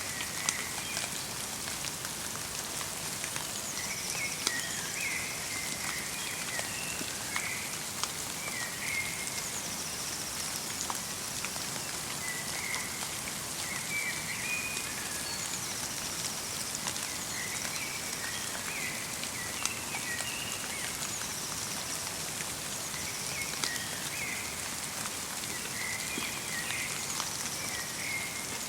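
Light rain falling steadily in a forest, a soft even patter with single drops ticking now and then. Small birds call over it, short chirping phrases coming back every few seconds.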